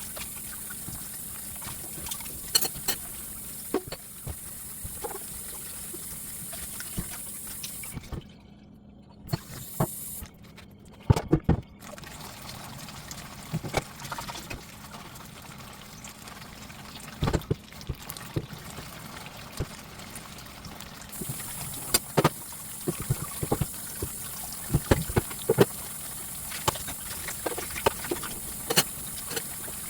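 Kitchen work sounds: scattered short knocks and clicks over a steady hum and hiss, with water trickling.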